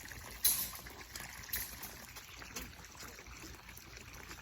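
Two sharp snaps about a second apart, the first the louder, over a steady hiss: cutters snipping through the fastenings of a hog-panel pig fence.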